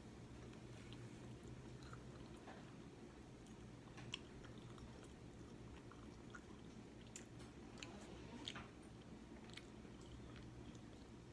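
Faint chewing of a mouthful of pizza, with scattered soft mouth clicks over a low steady hum.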